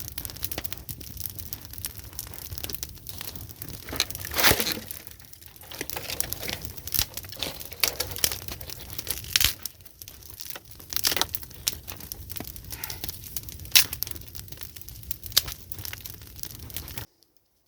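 Willow-wood campfire burning hard, crackling with irregular sharp pops and snaps; the sound cuts off abruptly near the end.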